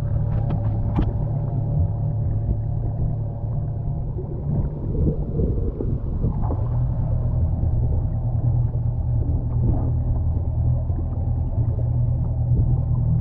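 Boat motor running steadily at an even pitch, with a few clicks in the first second.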